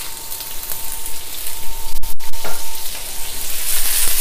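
Beansprouts sizzling in hot oil in a wok as they go in and are stirred with a wooden spatula.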